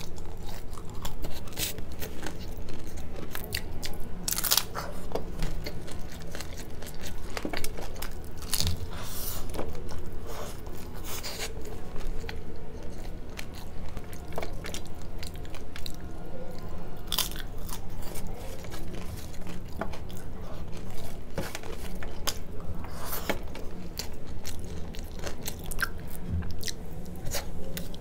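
Close-miked chewing and crunching of hard-fried puri with curry, eaten by hand: an irregular run of crisp crunches and mouth clicks.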